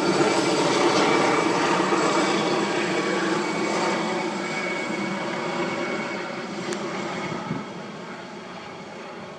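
MD 902 Explorer helicopter running after take-off, its turbine whine and rotor noise steadily fading as it flies away, with a further drop about seven and a half seconds in.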